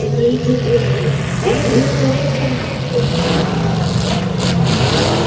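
Demolition derby cars' engines running loudly together, with engines revving up and down.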